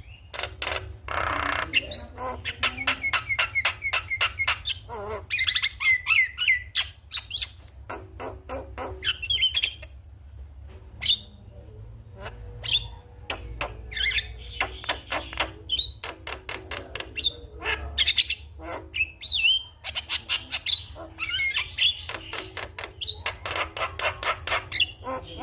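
Javan myna singing: a varied song of rapid clicks, chattering notes and short whistled phrases, over a steady low hum.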